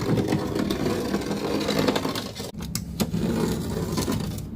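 Steady scraping and rubbing as a pane of old window glass is worked loose from its wooden sash.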